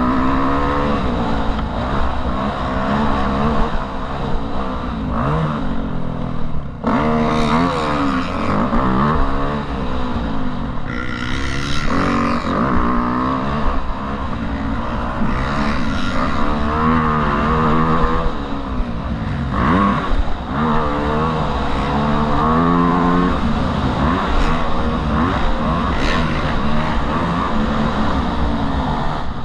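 Motocross motorcycle engines revving up and down, their pitch rising and falling again and again as the throttle opens and closes.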